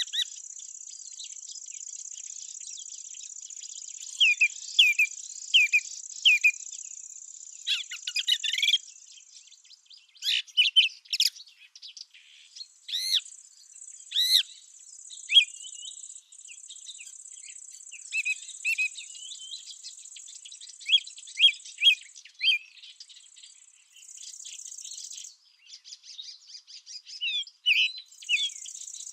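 Small songbirds chirping and singing in short, repeated phrases over a steady high-pitched trill of field insects. The insect trill breaks off several times and resumes.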